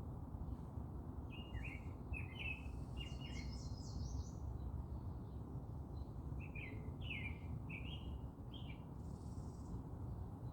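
A songbird singing two short phrases of quick chirping notes a few seconds apart, over a steady low background rumble.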